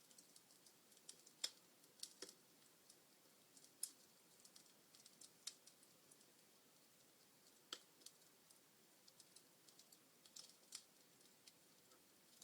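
Wood fire crackling in a fireplace: sparse, irregular sharp pops and snaps over a faint hiss, the loudest about a second and a half in and again near four seconds.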